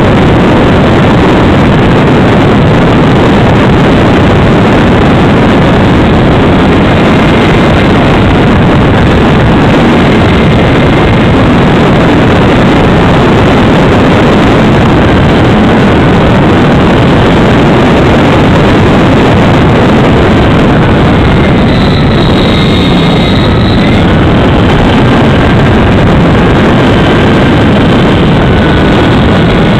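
Freewing Spacewalker RC model plane in flight, heard from a camera on board: a loud, steady rush of wind and propeller noise on the microphone. Under it the electric motor's faint whine shifts in pitch about two-thirds of the way through.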